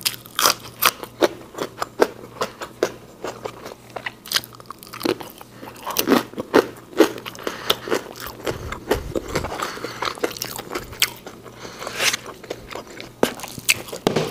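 Close-miked crunching and chewing of a raw green bean: a run of sharp, irregular crunches as it is bitten and chewed.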